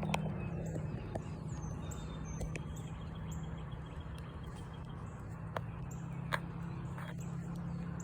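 Outdoor background with a steady low hum and faint, high-pitched chirps repeating about twice a second, broken by a few sharp ticks.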